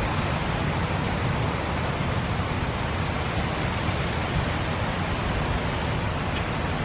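Steady thunderstorm rain, an even hiss with a low rumble underneath and no strikes or clicks standing out.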